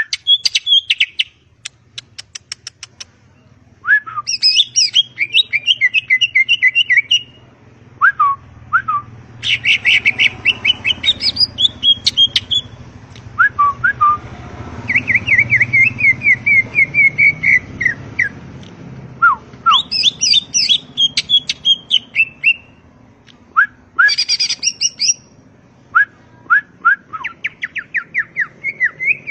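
Cucak ijo (green leafbird) singing: loud, varied phrases of rapid chirps, trills and whistled notes, delivered in bursts with short pauses between them.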